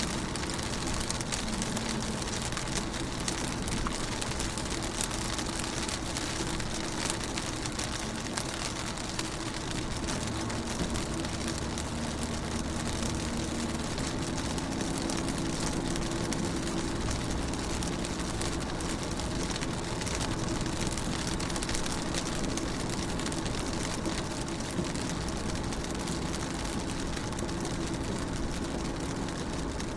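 Rain falling on a car's windows and body, heard from inside the car as a dense, steady patter of small drop ticks, over a steady low hum.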